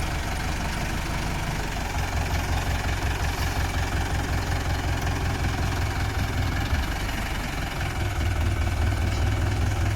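Mahindra tractor's diesel engine running with a steady low beat, growing louder about two seconds in and again near the end.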